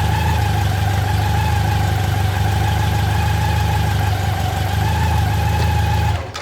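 BMW K100 RS's inline four-cylinder engine idling steadily through its stock exhaust. The engine stops near the end.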